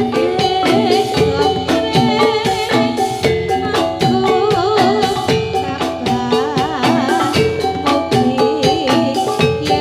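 Javanese gamelan music for a jathilan dance: struck metallophones ringing steady notes over a regular drum beat, with a singer's wavering melodic line over them.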